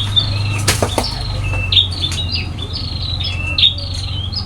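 Small birds (burung pipit) chirping busily, many short high chirps overlapping several times a second, over a steady low hum. Two sharp knocks sound a little under a second in.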